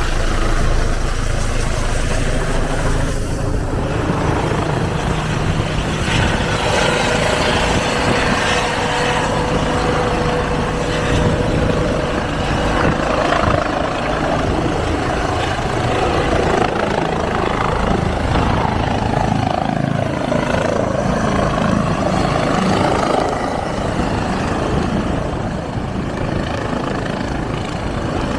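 Emergency airlift helicopter running close by: a loud, steady rotor chop with a steady whine rising above it through the middle and again near the end.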